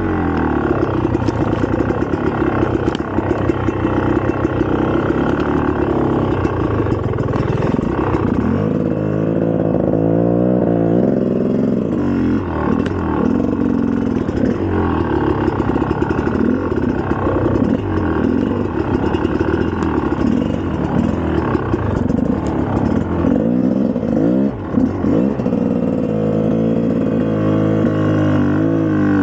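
2004 GasGas EC300's two-stroke single-cylinder engine running under way, its revs rising and falling over and over as the bike is ridden.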